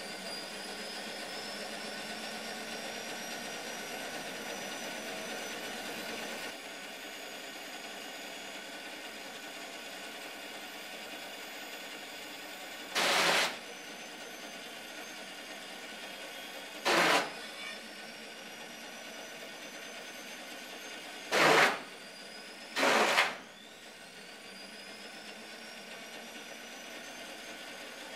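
Motor-driven shredder mechanism running steadily, its pitch rising as it spins up at the start. Four short loud bursts cut in over the run, one about halfway through and three more later.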